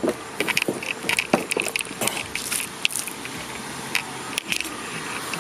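A string of irregular clicks, knocks and rustles over a steady background hiss.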